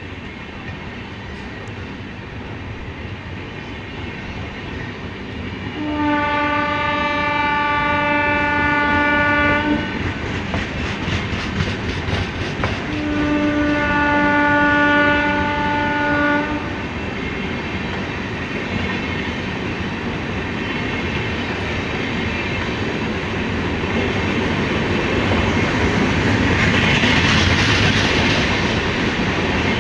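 Indian Railways train running on the track with wheels clacking over the rail joints, and its locomotive horn sounding two long blasts of about four seconds each.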